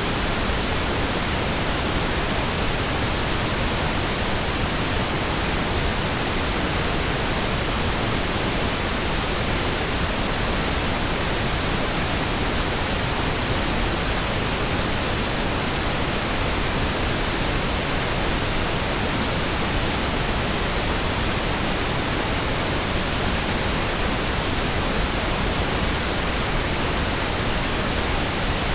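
Pink noise: a steady, even hiss spread across all pitches, with no changes or interruptions.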